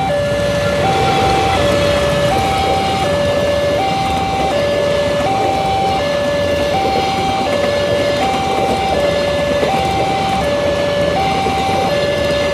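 Level-crossing warning alarm sounding two alternating electronic tones, high then low, each about three-quarters of a second, repeating steadily while the barrier is down for a train. Under it runs a steady loud rumbling noise, typical of the train going by.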